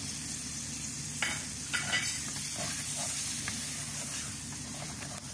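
Tomato sizzling in hot oil with sautéed onion and garlic in a metal pot, stirred with a wooden spoon. A steady hiss runs throughout, with a few short scrapes of the spoon about one to two seconds in.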